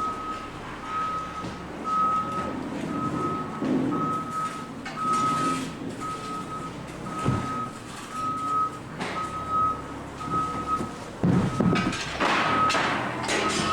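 Backup alarm beeping steadily, about three beeps every two seconds, over machinery rumble and clatter. The clatter grows louder for a couple of seconds near the end.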